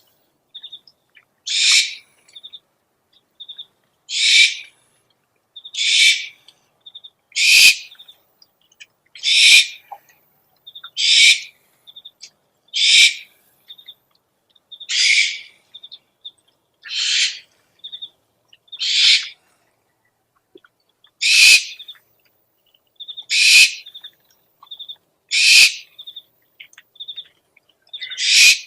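Owl giving harsh, hissing screech calls, one about every two seconds, with faint short chirps in between.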